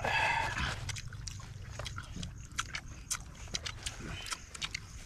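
Close-up eating sounds from people eating chicken and rice with their hands: scattered wet smacks and clicks of chewing, biting and lip-smacking. It opens with a brief high-pitched sound lasting under a second.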